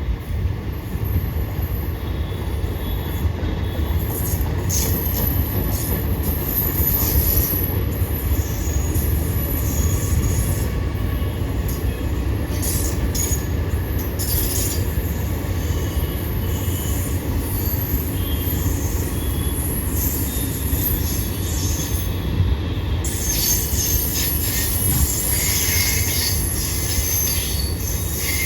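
Train running on rails: a steady low rumble with high-pitched wheel squeal coming and going, heaviest in the last few seconds.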